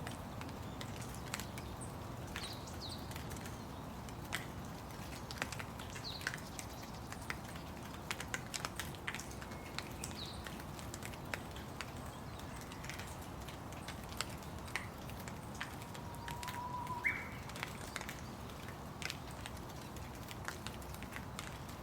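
Steady rain with scattered sharp drops tapping close by, and a few brief bird chirps; about seventeen seconds in, a short whistled bird call.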